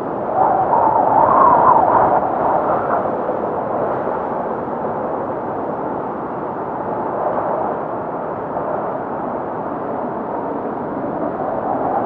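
Blizzard wind howling without letup. A stronger gust swells about half a second in and eases off by about three seconds.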